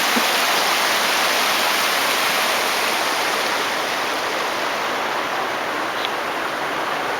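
Creek water rushing, a steady hiss with no rhythm.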